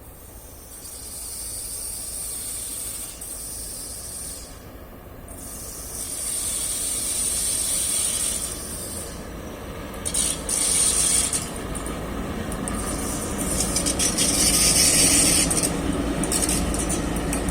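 An electric train approaching along the track, its low rumble and rail noise growing steadily louder. A high hiss comes and goes above it.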